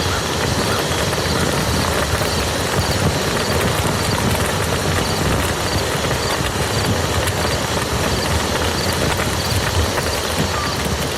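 Steady heavy rain falling on a muddy field, a dense even patter of drops.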